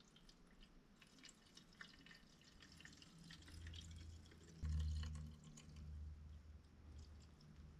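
Gasoline trickling and dripping from a drain pan's spout back into a leaf blower's fuel tank, many small faint drips. A little past halfway a low rumble sets in suddenly and is the loudest sound.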